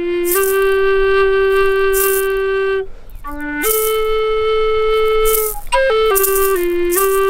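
Flute playing a slow melody of long held notes, breaking briefly about three seconds in, with a rattle shaken in short strokes every second or so.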